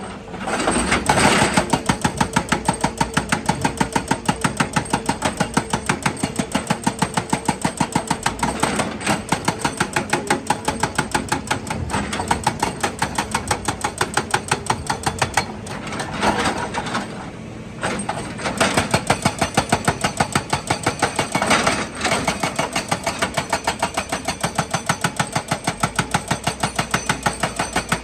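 Heavy machinery hammering rock in a steady fast rhythm of about three blows a second, stopping briefly a few times.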